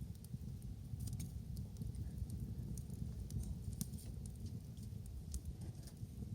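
Wood fire crackling: many small sharp snaps and pops at irregular moments over a steady low rumble.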